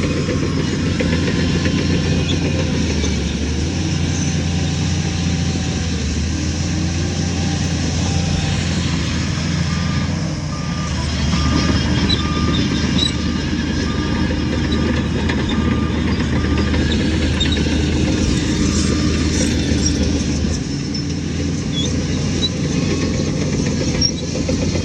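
Heavy diesel earthmoving machinery running steadily, its engine note shifting about ten seconds in and again near twenty. From about ten to seventeen seconds a reversing alarm beeps about once a second.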